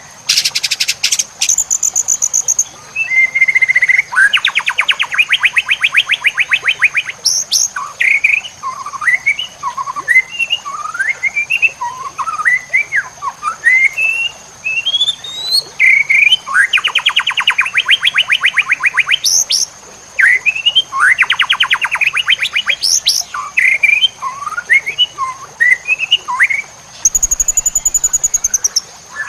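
White-rumped shama (murai batu) singing a loud, varied song: short rising whistled slurs broken by several rapid buzzing trills of two to three seconds each. A steady high-pitched tone runs underneath.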